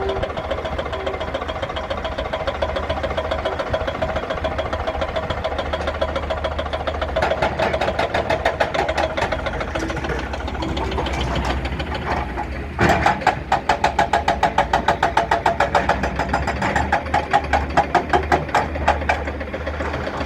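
Diesel engine of a Hyundai HX220S excavator running steadily. A bit past halfway it suddenly gets louder, with a regular pulsing of about four beats a second that eases off near the end.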